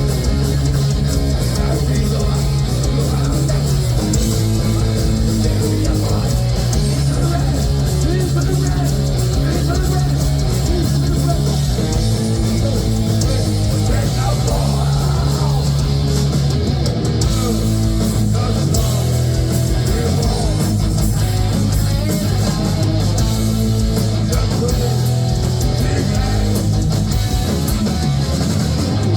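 Heavy metal band playing loudly and steadily: distorted electric guitar, bass guitar and drums with steady cymbal hits.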